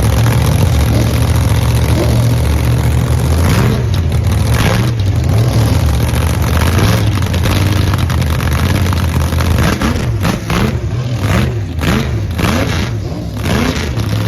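Car engines running loud with a deep steady rumble, revved up and down repeatedly, in two spells of revving, one a couple of seconds in and another near the end.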